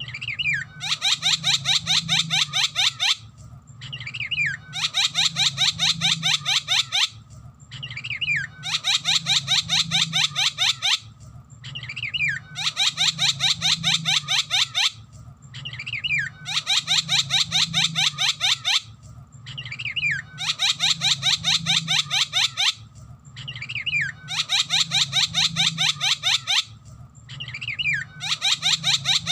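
Javan myna (jalak kebo) singing the same loud phrase over and over, about every four seconds. Each phrase is a short falling whistle followed by a rapid run of harsh, chattering repeated notes lasting about two seconds.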